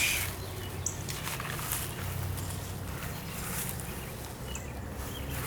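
Quiet outdoor ambience: a steady low rumble with a few faint, short, high bird chirps.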